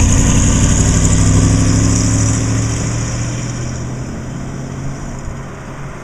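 1963 Corvette's 327 small-block V8 running steadily, its engine note slowly fading away as the car drives off.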